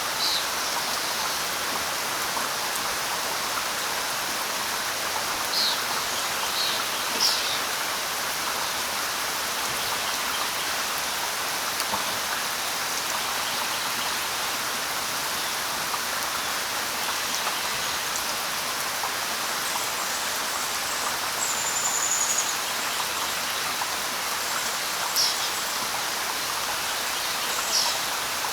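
Light rain falling steadily, with a few short bird chirps now and then and one brief whistled note near the middle.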